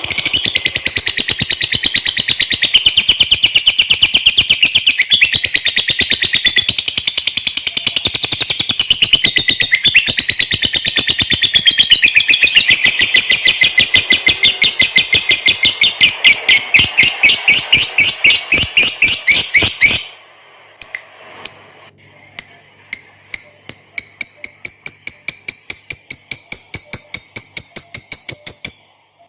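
Lovebird singing its long 'ngekek' chatter: a loud, unbroken run of rapid, high, repeated notes. About twenty seconds in it breaks off briefly, then comes back as spaced notes that quicken into another rapid run.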